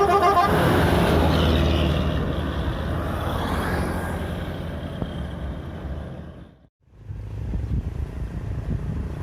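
A heavy vehicle's multi-tone horn cuts off about half a second in, followed by the engine and road noise of a large truck-type vehicle passing and fading away. Near the end the sound drops out completely for a moment, then engine noise picks up again.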